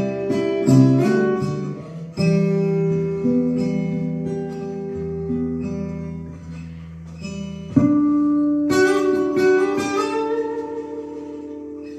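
Acoustic guitar playing an instrumental: plucked melody notes over held bass notes, with a full chord struck about eight seconds in and left ringing as it fades.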